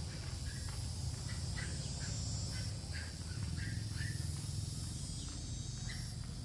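Small birds chirping in short, high, irregular calls, over a steady low hum.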